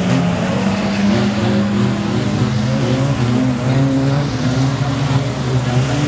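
Engines of several banger racing cars running together on the track, their overlapping notes rising and falling slightly as the throttle changes.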